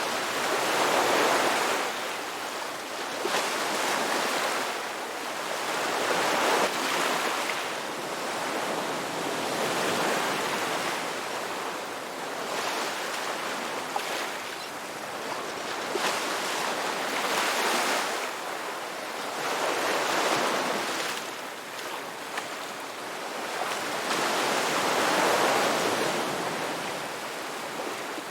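Ocean waves breaking and washing on shore, the surf swelling and falling back every few seconds.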